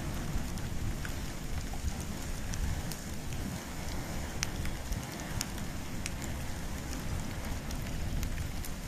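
Wood and bamboo burning in an open fire, crackling with scattered sharp pops over a low, steady rumble of flames.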